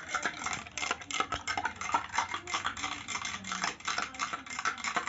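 Spoon stirring soapy water in a glass, clinking against the glass in quick, uneven strikes.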